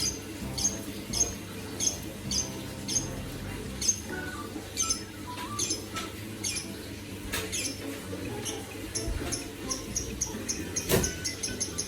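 A pet bird chirping over and over in short high chirps, about two a second, coming faster near the end. A single sharp knock about eleven seconds in.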